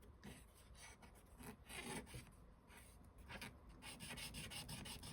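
Faint, quick rubbing strokes of hand cleaning along the edges of a Singer Genie sewing machine, wiping away built-up dust and dirt.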